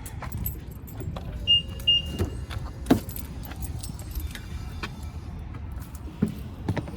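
Someone handling and getting into a BMW X5: scattered clicks and knocks over a low rumble, two short high electronic beeps about a second and a half in, and a few sharp thumps, the loudest near three seconds.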